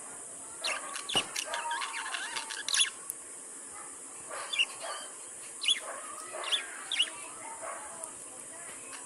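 Lovebirds chirping: quick, shrill chirps in two busy runs, one starting just under a second in and another around the middle, with short lulls between.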